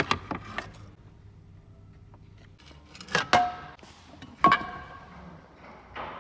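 Metal tools and parts clanking against metal: a short clatter at the start, then two sharp metallic clanks about three and four and a half seconds in, each ringing briefly.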